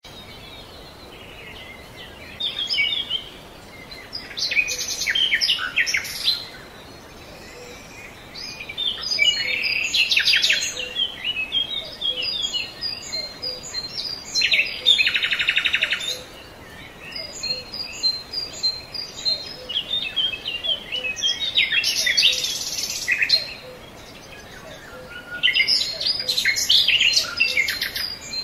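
Birds singing, bursts of chirps and warbles every few seconds with a fast trill about halfway through, over a faint, regular low pulse.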